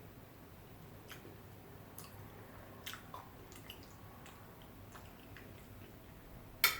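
Faint, soft chewing with scattered small wet mouth clicks, and one sharper click near the end.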